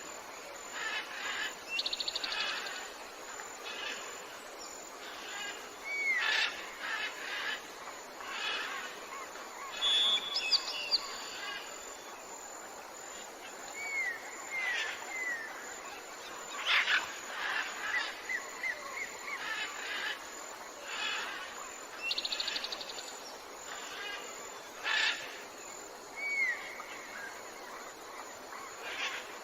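Mixed chorus of tropical forest birds: overlapping short whistles, down-slurred calls, sharp chirps and a rapid buzzy trill that come and go.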